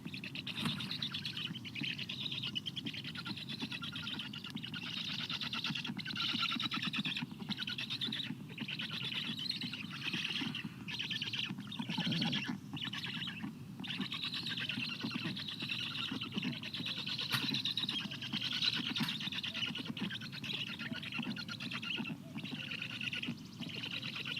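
Black stork chicks begging at the nest: a continuous raspy, rapidly pulsed chatter with a few short breaks, over a steady low rumble.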